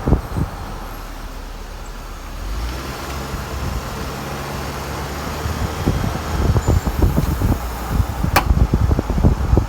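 Hummer H3 moving with its engine running, over a series of irregular clicks and knocks that come thicker in the second half, with one sharp click near the end: a clicking suspected to be a failing CV axle.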